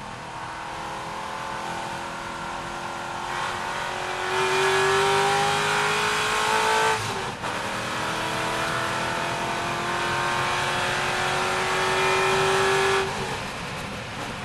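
C6 Corvette's V8 engine under hard acceleration, revs climbing steadily for about seven seconds, a brief break at a gear change, then climbing again for about six seconds before dropping off near the end.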